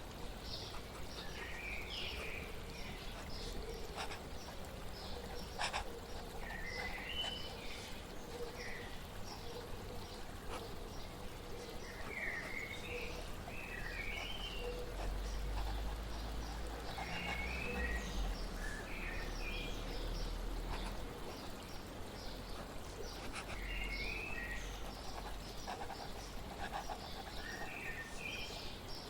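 Small birds chirping in short, quick zigzag phrases that come every few seconds, over a steady wash of flowing water.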